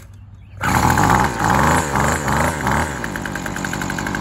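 The 25cc two-stroke engine of a WeedEater SST25 string trimmer catches on a cold start about half a second in. It revs up and down unevenly for a couple of seconds, then settles into a steady idle.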